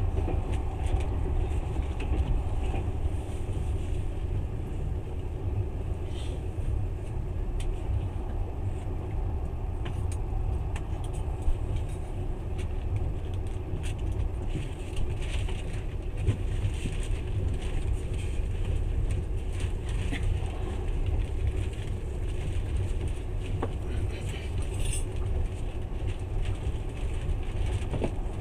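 Passenger train running along the track, heard from inside the carriage: a steady low rumble with a few faint clicks scattered through it.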